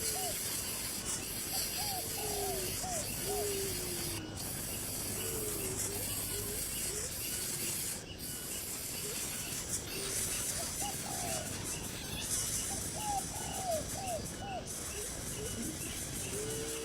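Bird calls: groups of three to five short, arched notes repeated every couple of seconds, over a steady high hiss.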